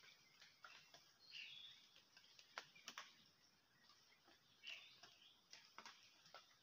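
Faint, distant birds giving short chirping calls, with a few sharp ticks a little past the middle.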